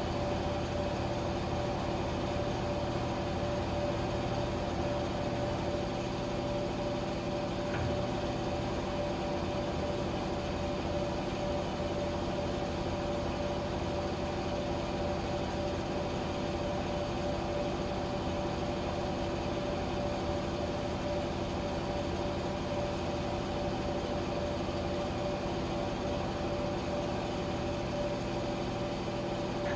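Washing machine running, a steady hum with an even whirring tone over a low rumble.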